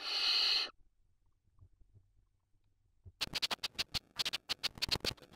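Barn owl giving a short harsh hissing screech of about 0.7 s, then, after a pause, a quick run of scratching and scuffling clicks in the nest from about three seconds in.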